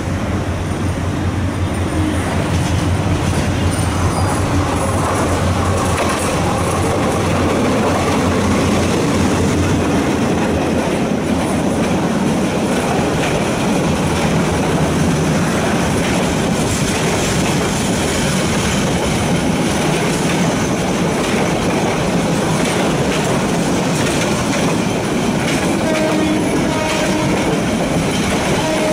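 Titas Commuter passenger train passing close by on the adjacent track, its long string of carriages rolling past with a steady clatter of wheels on the rails. The sound is deepest and heaviest in the first ten seconds or so.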